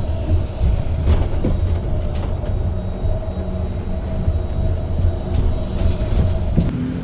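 Train running on rails: a steady low rumble with a steady whine and a few sharp clicks. The whine stops shortly before the end.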